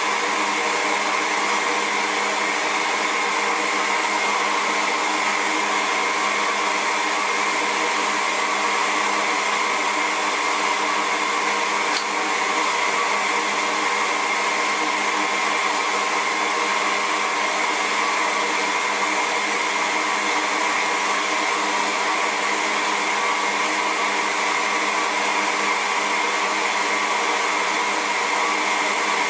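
RevAir reverse hair dryer running steadily, its motor drawing air through the wand: a constant rush of air with a hum of several steady tones. A brief click about twelve seconds in.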